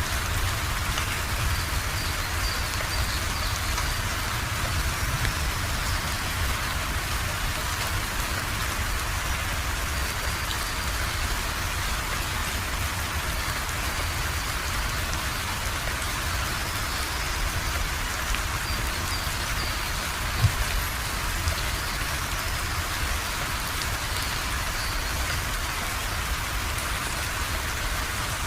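Steady rain falling, an even patter with a low rumble underneath. A single short knock stands out about twenty seconds in.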